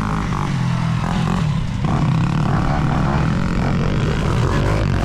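Motocross dirt bike engines running on the track, revving up and down.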